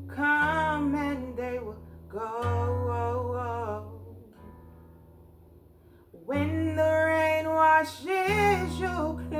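Acoustic guitar picked one low note at a time on a single string, each note held about two seconds, with a voice singing the melody over it. The sound dies down for a couple of seconds near the middle, then the playing and singing start again.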